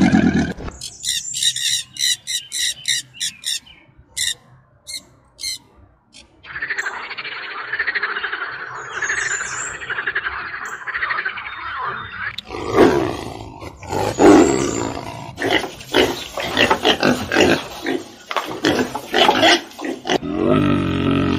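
A string of animal calls: first a run of short high chirps repeating about three a second; then, from about six seconds in, a frog's dense continuous croaking trill; then, from about twelve seconds in, pigs grunting and squealing, loud and irregular.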